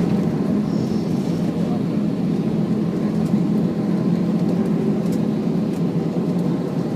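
Steady cabin noise inside an Airbus A320 airliner on landing: a constant rumble of engines and airflow with a low hum running through it.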